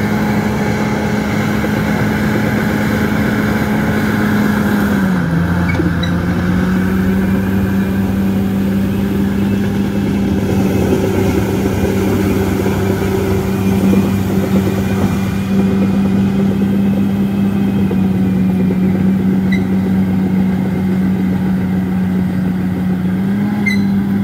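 Bulldozer's diesel engine running steadily under load. Its pitch dips slightly about five seconds in and comes back up near the end.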